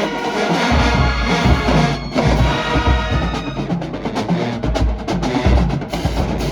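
Marching band brass section and drumline playing together, loud and continuous. Held brass chords give way about three seconds in to a busier stretch of sharp drum hits.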